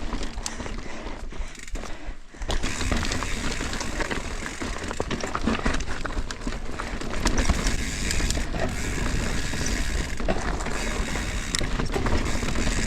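Mountain bike riding over rough, rocky trail: tyres rolling on wet dirt and rock, with many small rattles and knocks from the bike. It goes briefly quieter about two seconds in, then carries on a little louder.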